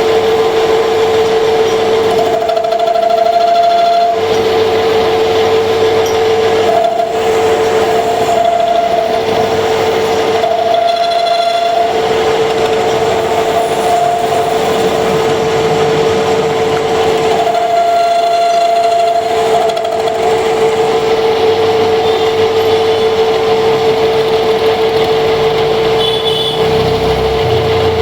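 Metal lathe running steadily with a constant hum while turning a water pump rotor at its oil seal seat; a higher, ringing tone comes and goes three times as the tool cuts.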